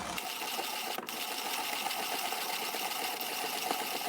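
Zassenhaus 5408 hand-cranked conical burr coffee grinder crushing coffee beans on its finest setting, burrs just touching: a steady, dense crunching grind with many small cracks of beans breaking as the handle turns.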